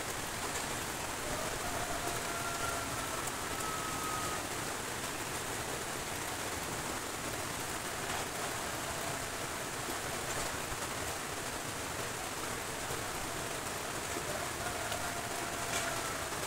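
Steady rain falling on corrugated iron roofs, mixed with the rush of a flooded river. A faint, distant held tone sounds twice, near the start and near the end.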